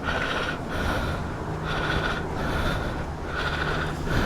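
Repeated swishing strokes, about one a second, of the motorcycle's headlight faceplate being scrubbed by hand, over a low steady hum.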